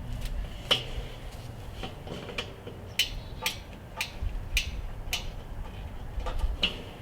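Sharp clicks and taps of a screwdriver working on the screws of a Weber kettle grill's handle, several about half a second apart in the middle.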